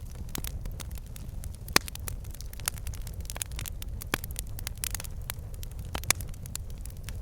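Wood fire in a fireplace, crackling with frequent sharp pops and snaps from the logs over a steady low rumble of the flames. One pop about two seconds in is louder than the rest.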